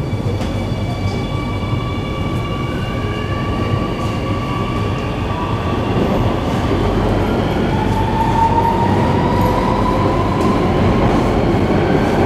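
Singapore MRT electric train pulling away and accelerating, heard from inside the car: the traction motors give several whining tones that rise in pitch over the wheel and running noise, which grows a little louder.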